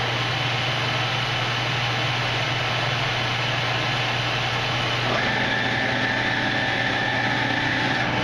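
Victor engine lathe running under power, a steady mechanical hum with gear noise. About five seconds in, a few steady whining tones from the drive join in and hold.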